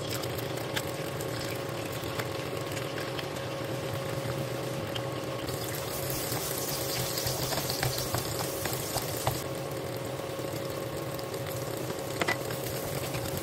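Eggs frying in hot oil in a nonstick wok: a steady sizzle with scattered crackling pops, while a wooden spatula stirs and breaks them up. A faint steady tone runs underneath.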